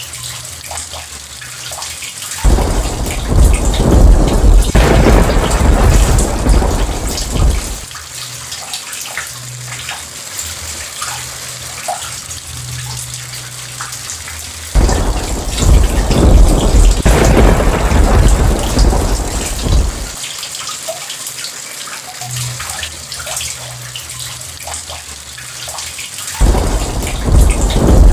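Steady rain falling, with thunder rumbling three times, about every twelve seconds; each roll comes in suddenly, is loud and deep, and dies away over about five seconds.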